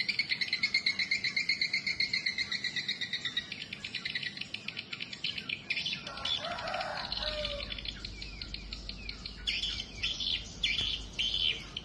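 Swiftlets twittering: a fast, buzzy trill for the first few seconds, then bursts of sharp chirps repeating about twice a second near the end.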